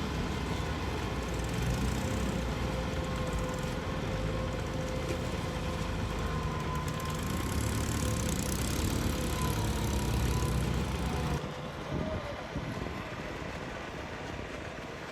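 Tractor engine running steadily while tilling a muddy field, with a faint steady whine over the engine note. About eleven seconds in, the deep engine sound drops away abruptly and becomes quieter.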